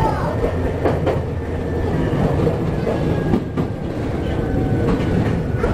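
Chichibu Railway 7500-series electric train running along the track, heard from the driver's cab: steady running noise and hum, with a few sharp clicks from the wheels.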